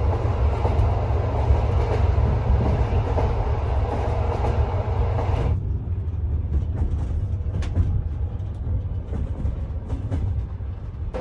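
Sleeper train carriage running on the rails with a steady low rumble. About halfway the higher hiss drops away suddenly, leaving the rumble and a few light clicks.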